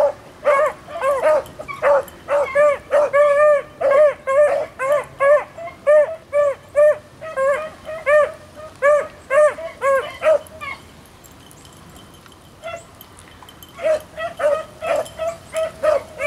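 Beagles baying while running a rabbit, short pitched bays coming two or three a second. They fall quiet for about three seconds two-thirds of the way through, then take up baying again.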